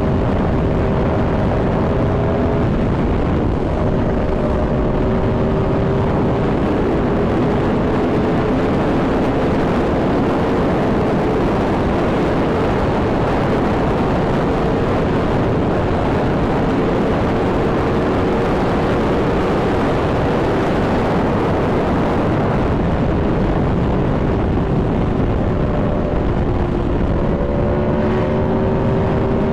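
Aprilia Tuono V4 motorcycle's V4 engine running at a steady speed under heavy wind rush, its pitch drifting a little and climbing near the end.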